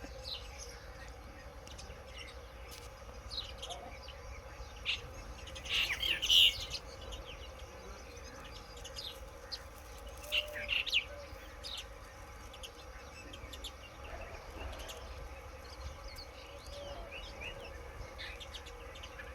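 Small birds chirping: scattered short, high calls, with a louder flurry about six seconds in and another around ten to eleven seconds.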